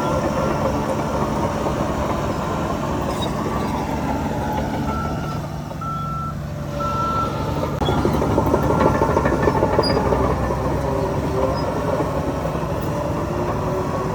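Heavy construction machinery engines running, with a reversing alarm giving three short beeps near the middle. The engine noise grows louder about eight seconds in.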